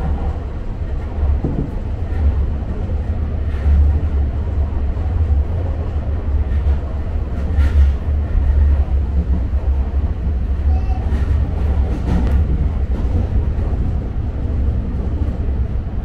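Tobu Urban Park Line electric commuter train running along the track, heard from inside at the front: a steady low rumble of wheels on rails, with a few faint clicks.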